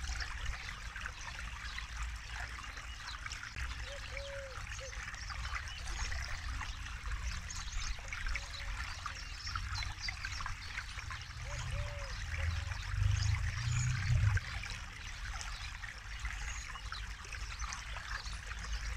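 Forest river flowing steadily, water trickling and splashing over stones, with a low rumble that swells for a couple of seconds past the middle. A faint short low note recurs every few seconds.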